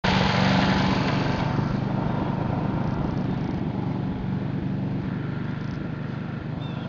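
An engine running steadily with a low drone, easing off slightly in loudness. It starts abruptly at a cut.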